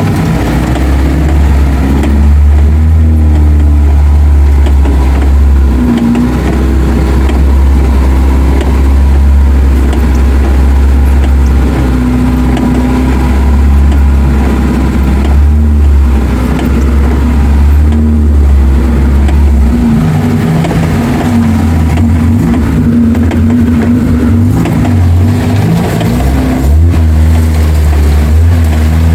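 Suzuki 4x4's engine running under load on an off-road trail, its low drone rising and falling in pitch as the throttle changes, with noticeable shifts about 6 and 20 seconds in.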